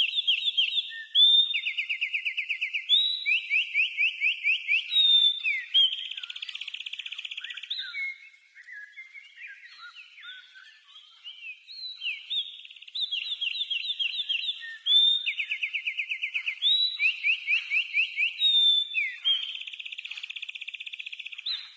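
House wren (garrincha) singing: fast runs of rapidly repeated clear notes, one phrase after another, loud for the first several seconds and again from about halfway on, with a softer stretch of scattered twittering notes in between.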